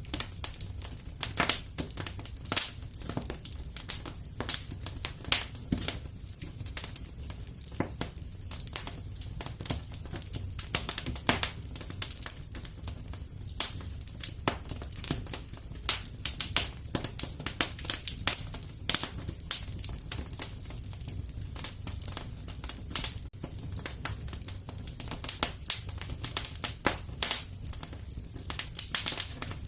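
Fireplace fire crackling: irregular sharp snaps and pops, several a second, over a low steady rumble.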